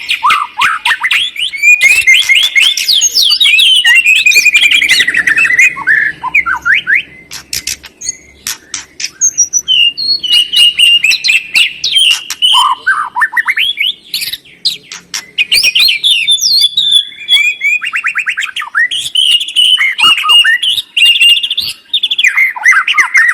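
White-rumped shama and greater green leafbird song: a loud, fast stream of varied sweeping whistles, chirps and sharp rattling clicks, with a couple of short pauses.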